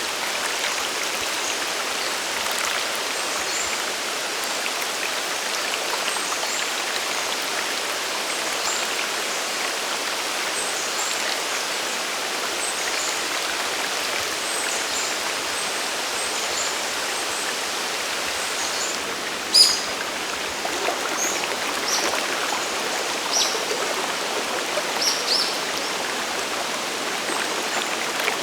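Steady rushing of the water at Sagiri Falls, a mountain waterfall and stream. Short high ticks come through it now and then, with a sharp click about twenty seconds in that is the loudest moment.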